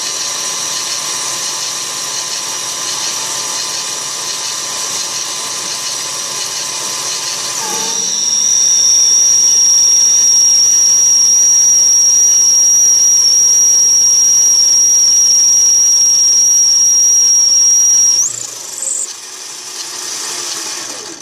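Mini lathe turning 303 stainless steel with a carbide insert tool, the motor running with a steady whine. About eight seconds in, the cut deepens to 0.075 inch per side and it gets louder, with a steady high-pitched squeal but no chatter. The squeal holds for about ten seconds, then breaks off with a brief rise in pitch.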